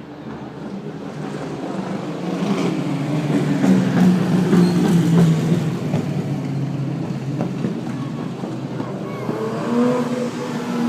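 Classic car engines running, growing louder to a peak about four seconds in, with an engine's pitch rising near the end.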